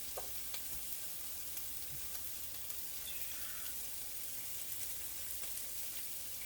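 Onions frying in a pan: a steady sizzling hiss with scattered small crackles.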